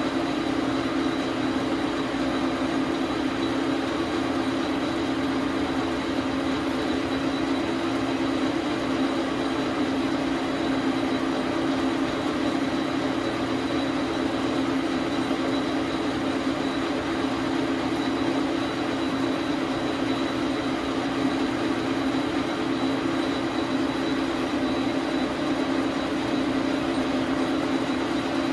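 Dar Sin 12 x 37 manual lathe running steadily: a constant hum from the motor and gear train with a thin high whine on top.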